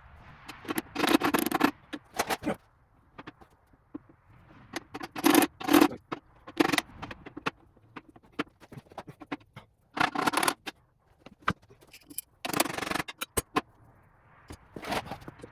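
Repeated short bursts of scraping and clatter, about half a dozen, with scattered light clicks between them: parts of an old Rockwell Delta drill press being handled and worked on during disassembly.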